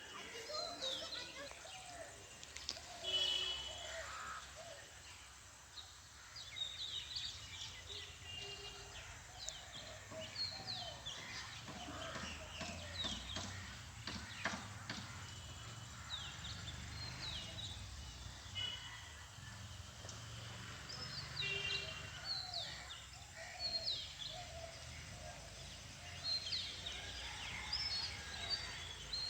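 Many small birds chirping and calling, short high chirps scattered throughout, over a steady low rumble.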